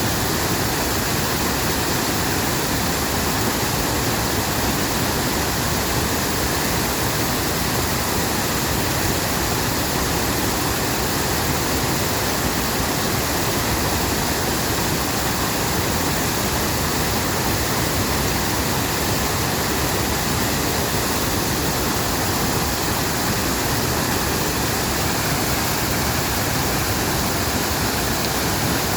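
Mountain valley stream: water rushing with a steady, unbroken noise.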